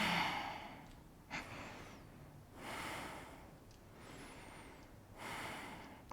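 A person breathing audibly close to the microphone: slow, breathy inhales and exhales, about five in a row, the first the loudest.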